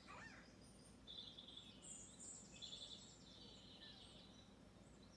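Faint birdsong: short chirps, then high, rapid trills from about one to three and a half seconds in.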